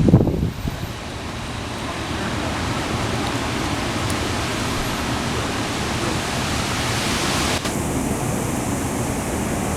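Steady rush of gale-force storm wind from a remnant hurricane, an even noise with no pitch. A loud gust hits at the very start, and the highest hiss thins out about seven and a half seconds in.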